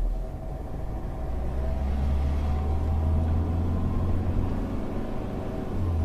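Hyundai car's engine and tyre noise heard from inside the cabin, a steady low rumble as the car pulls away in first gear.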